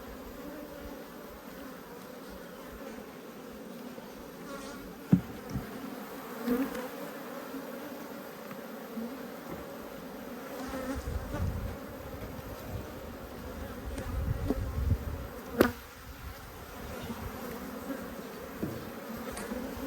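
Honeybees buzzing in a steady hum around an open beehive, with two sharp clicks, one about five seconds in and one about fifteen seconds in.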